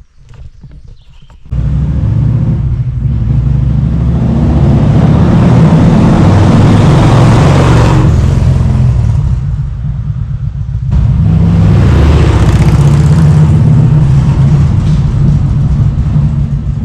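Kawasaki Vulcan 1700 Voyager trike's V-twin engine under way, with wind rushing past. It starts suddenly about a second and a half in and pulls steadily. It eases off around eight seconds, then picks up again about eleven seconds in.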